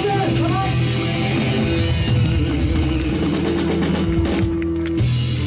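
Live rock band playing amplified electric guitar over a drum kit, a run of drum hits in the middle and a held note that stops about five seconds in.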